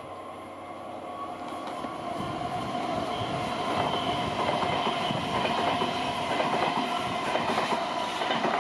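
Stadler KISS double-deck electric multiple unit passing at speed: the rolling noise of wheels on rail grows over the first few seconds as the train approaches, then holds steady as the cars go by, with a steady whine over it.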